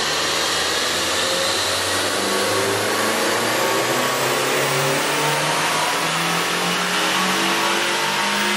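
Turbocharged 1.4-litre four-cylinder engine of a 2012 Chevrolet Sonic, fitted with a K&N performance air intake, running hard on a chassis dynamometer, its pitch rising slowly as the revs climb.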